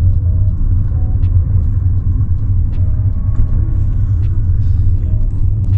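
Steady low rumble of a car in motion, heard from inside the cabin, with a few faint ticks over it.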